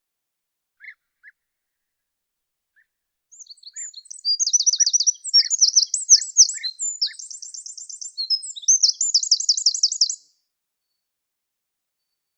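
Songbirds singing. A few short chirps come first, then from about three seconds in a long, varied song of fast repeated high trills, which cuts off suddenly near the ten-second mark.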